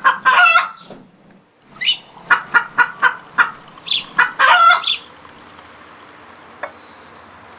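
Chickens calling: a run of short clucks, with two louder, longer squawking calls, one right at the start and one about halfway through.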